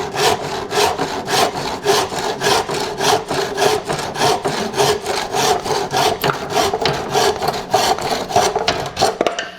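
Hand saw cutting through a wooden stake in quick, even strokes, about four a second, stopping shortly before the end.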